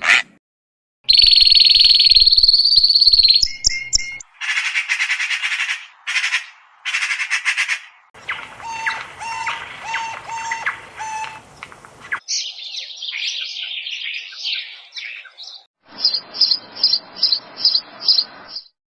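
A run of separate short recordings of animal calls, mostly birds chirping and trilling, each cut off sharply before the next begins. The last is a series of about eight high, evenly spaced chirps, roughly three a second.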